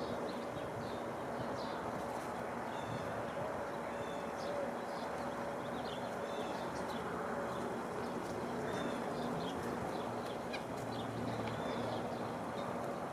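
Small birds chirping, many short high calls scattered throughout, over a steady rushing background noise.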